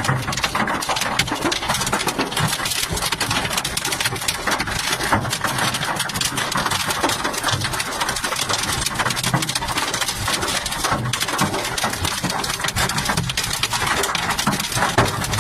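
Large hailstones pelting down in a dense, unbroken clatter of countless impacts.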